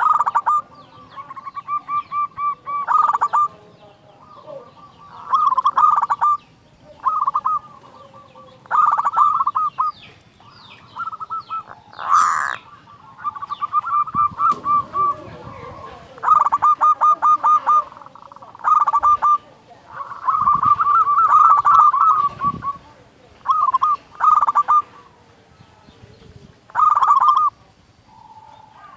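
Zebra dove (perkutut) cooing over and over, each phrase a quick run of staccato notes, in full song. A brief loud noisy burst cuts in about twelve seconds in.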